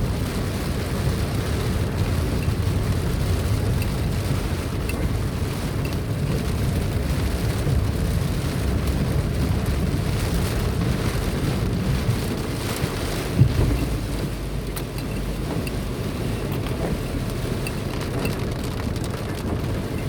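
Car driving along a road: a steady low rumble of engine and tyres, with a single short thump about thirteen seconds in.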